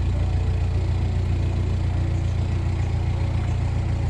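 Narrowboat engine running steadily with an even low hum.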